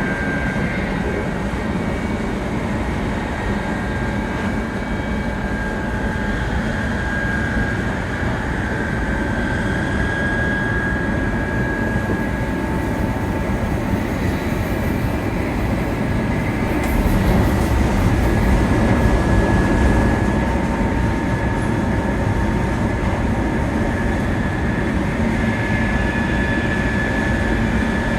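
700 series Shinkansen running steadily, heard inside the car: a steady rumble of wheels on rail under a faint high whine. The low rumble swells louder for a few seconds about two-thirds of the way through.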